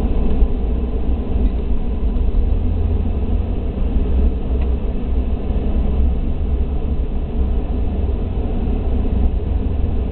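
Police patrol car driving, heard from inside the cabin: a steady low engine and road rumble.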